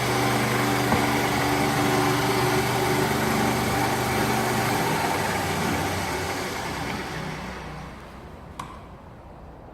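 Bandsaw running as it rips through a 13 cm thick piece of wood, its motor labouring. The steady hum fades and winds down from about five seconds in, with a single click near the end.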